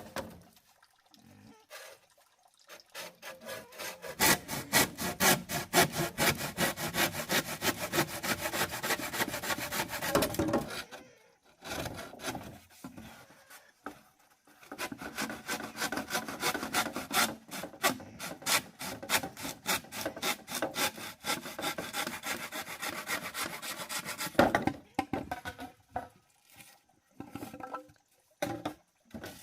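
Rapid, even scraping strokes, about six a second, in two long bouts with a pause of a few seconds between them, and a few scattered knocks around them.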